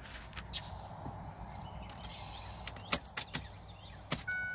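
Scattered sharp clicks and knocks from handling inside a car. Near the end a steady two-pitched electronic car chime starts and keeps sounding.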